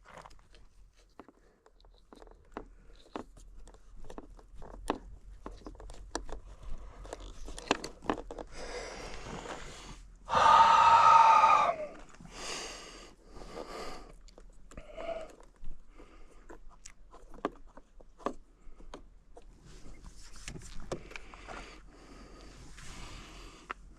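Small clicks, taps and rattles of fingers working plastic electrical connectors and fuses in a fuse box, scattered and irregular. About ten seconds in comes a loud strained vocal groan lasting over a second.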